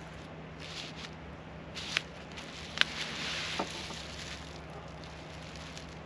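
Handling sounds: brief rustling and three sharp clicks about a second apart, over a steady low hum.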